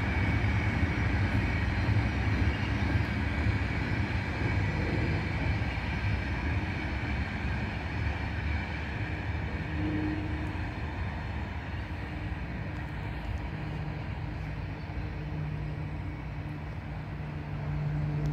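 Freight train of covered sliding-wall wagons rolling past: a steady rumble and clatter of wheels on rail that slowly fades as the last wagon draws away.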